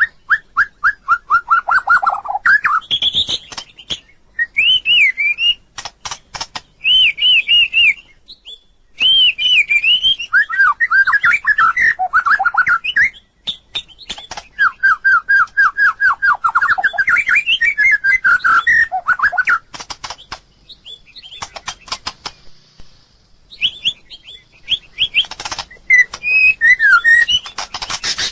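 White-rumped shama singing: varied whistled phrases and fast series of repeated falling notes, with sharp clicks between phrases and a short pause a little past the middle.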